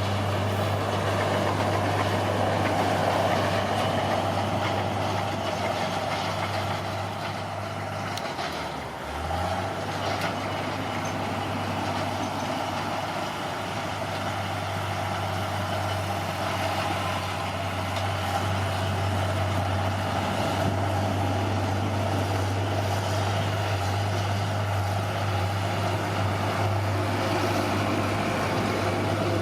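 Bulldozer's diesel engine running steadily with a rattling, hissing noise over it. About eight seconds in the engine dips briefly, then picks back up.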